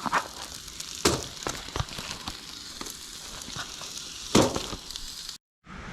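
Sausage and potatoes frying in a skillet over the heat: a steady sizzle with light crackling and two sharp clicks, about a second in and near the end.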